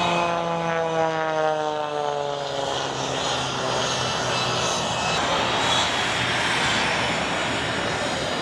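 Propeller airplane flying past, its engine note falling steadily in pitch over about five seconds as it goes by, then giving way to a steady rushing noise.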